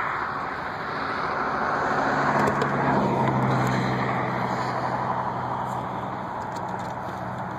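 A passing vehicle's engine: a broad rushing noise with a steady low hum that swells about two seconds in, is loudest around three to four seconds, then slowly eases off.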